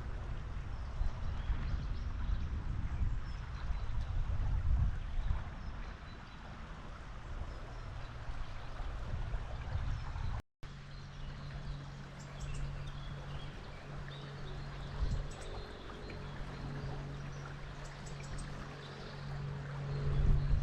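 Running river water, a steady rushing wash, broken by a brief dropout about halfway through. After the dropout a low steady hum sits under the water, with a few faint high chirps.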